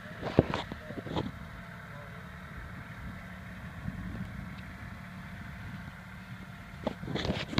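Tractor engine running steadily, with a few sharp knocks about half a second and a second in and again near the end.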